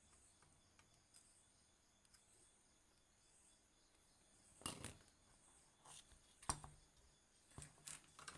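Near silence, broken by a handful of faint sharp clicks and knocks: a close pair about two-thirds of the way through, then three or four more single ones toward the end, as of small parts or tools being handled.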